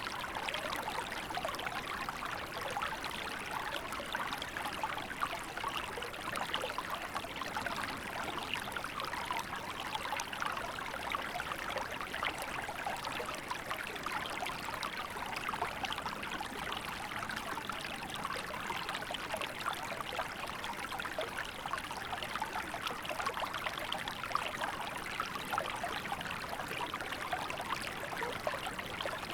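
Small river flowing steadily in winter, water running and trickling over stones with fine splashy flicker.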